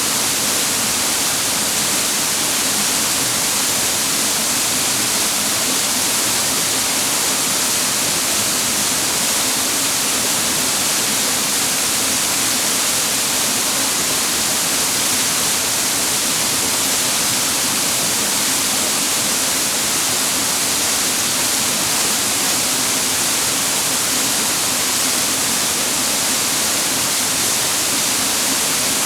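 Steady, unbroken rush of water cascading over rocks in a clear mountain stream at a waterfall, hissing most in the high range.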